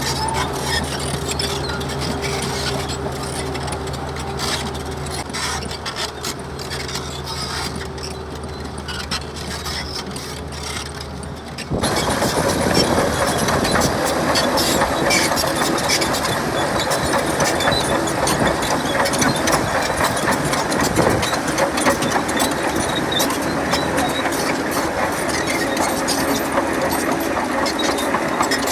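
Heavy diesel earthmoving machinery working. A steady engine drone runs for about the first twelve seconds, then the sound cuts suddenly to a louder, denser run of engine noise and metallic clatter.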